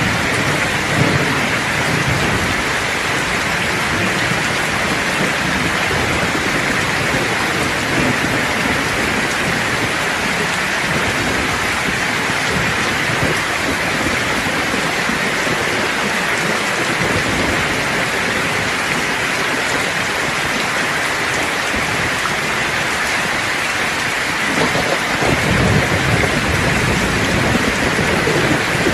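Steady heavy rain falling, with low rolling thunder rumbling near the start and swelling again near the end.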